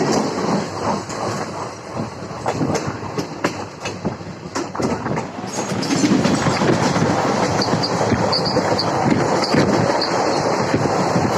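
Tebhaga Express passenger train running on the track: wheels clattering over the rail joints over a constant rumble, louder from about halfway through, with a few short high squeaks near the end.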